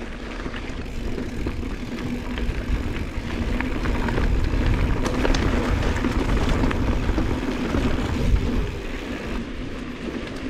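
Wind buffeting the camera microphone over the rumble of a Giant Trance mountain bike's tyres rolling on a rough dirt track, with scattered clicks and rattles from the bike. A faint steady hum sits under the noise through the middle of the stretch.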